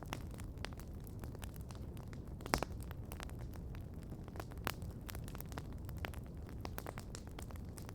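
Campfire crackling: frequent sharp snaps and pops of burning wood, one louder pop about two and a half seconds in, over a low steady rumble.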